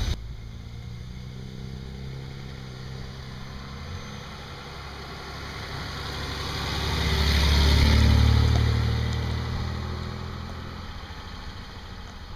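Engine of a classic Mercedes-Benz W113 'Pagoda' SL roadster, a straight-six, running as the car drives by. The sound swells to its loudest about eight seconds in, then fades as the car moves away.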